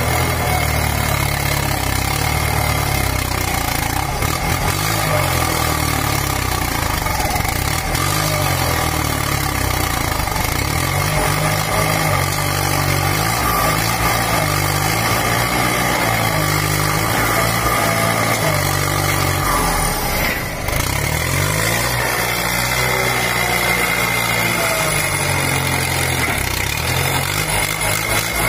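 Kubota M8540 tractor's diesel engine running, its speed rising and falling again and again, with a steady high whine throughout.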